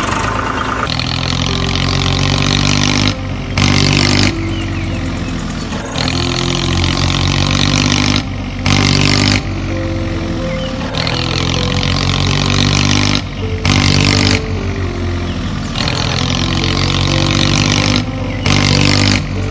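Cartoon vehicle engine sound effect running over a repeating tune with stepping notes. The engine noise breaks off briefly about every five seconds before the loop starts again.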